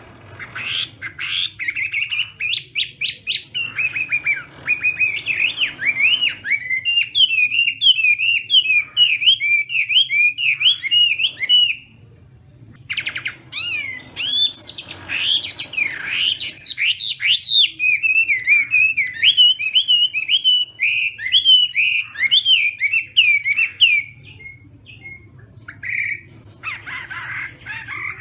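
Chinese hwamei (laughingthrush) singing a loud, rapid, endlessly varied song of whistled and gliding notes. It sings in two long bouts with a brief pause about twelve seconds in, then a few scattered calls near the end.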